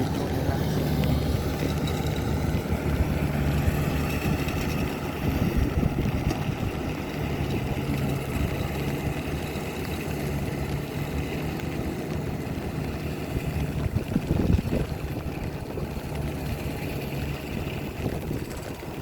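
Rice combine harvester's diesel engine running steadily, with a brief louder surge about fourteen seconds in.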